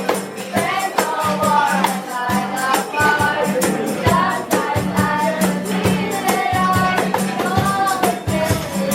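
Live band playing, with a singer over a steady beat of light percussion.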